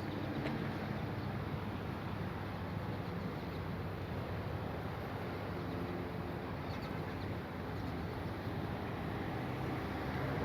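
Steady road traffic noise: the engines and tyres of passing cars, with a low hum.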